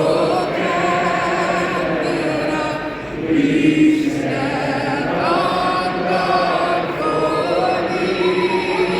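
Large arena crowd singing together, many voices on long held, slightly wavering notes.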